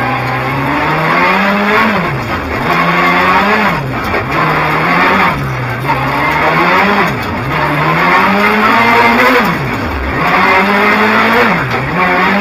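Rally car engine heard from inside the cabin, driven hard. The revs climb and drop back every one to two seconds as the driver accelerates, lifts and shifts.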